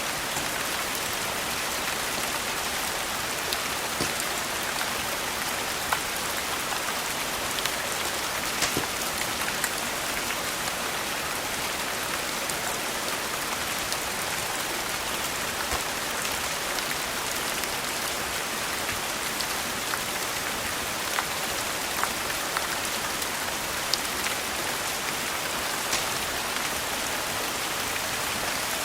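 Steady rain falling, an even hiss, with a few scattered sharp pops standing out over it.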